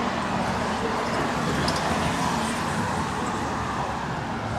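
Steady city street traffic noise: vehicles running past with a low engine hum.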